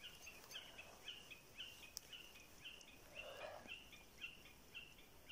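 A bird repeating a short, high, slightly falling note about twice a second, faint and steady in rhythm.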